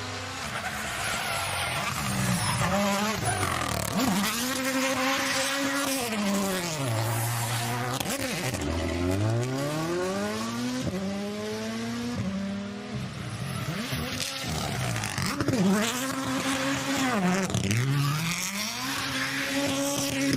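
Racing car engine revving hard, its pitch climbing and dropping again and again through the rev range.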